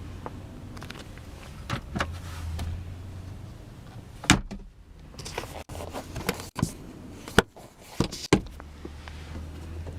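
Several sharp clicks and knocks from handling parts of a car's interior, most of them in the second half, over a low steady hum.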